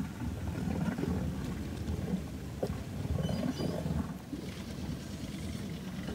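Toyota Tercel's four-cylinder engine revving rough and low as the car churns its wheels in a mud hole. About four seconds in, the sound turns more hissy.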